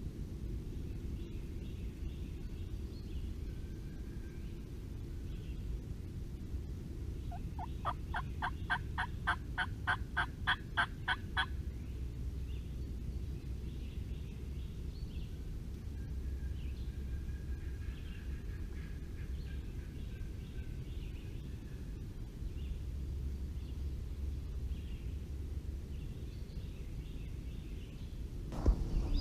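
A series of about twenty turkey yelps, about five a second, lasting some four seconds. A steady low rumble of highway traffic runs underneath, and a single knock comes near the end.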